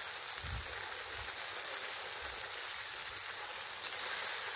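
Chili sauce sizzling steadily in a hot frying pan as deep-fried quails are added and stirred. A few soft low thumps come through the hiss in the first half.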